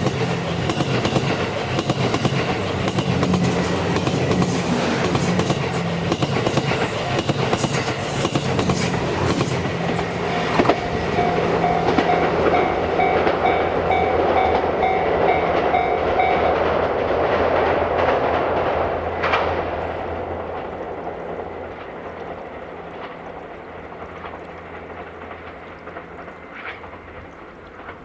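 The JR West 87 series Twilight Express Mizukaze, a diesel-hybrid train, passes over a level crossing: its engines hum steadily and its wheels click over the rail joints, then it fades away over the last ten seconds. A level-crossing bell rings in a pulsing tone and stops about sixteen seconds in.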